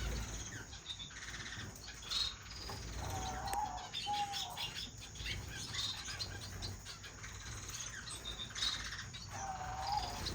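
Small pet finches, society finches and owl finches, chirping and twittering continuously with many short high chirps. Twice, about three seconds in and near the end, a lower wavering drawn-out call stands out.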